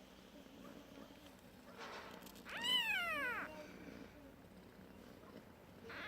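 A newborn kitten's high mew: one loud cry about two and a half seconds in that rises briefly and then falls in pitch. A second cry starts right at the end.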